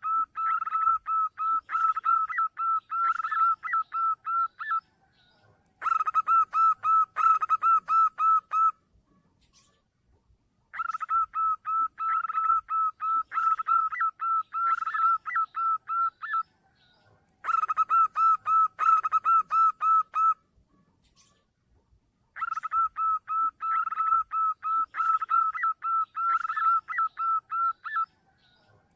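Zebra dove (perkutut) calls played as a lure: five bouts of rapid staccato cooing notes, about four to five a second, each bout lasting a few seconds with short pauses between.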